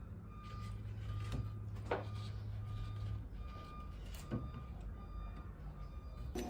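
Evenly repeated short electronic beeps over a low steady hum, which stops about three seconds in, with a few faint knocks.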